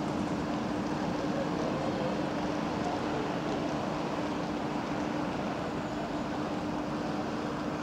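Electric passenger train pulling away from the platform, its running noise slowly fading as it recedes, with a steady hum underneath.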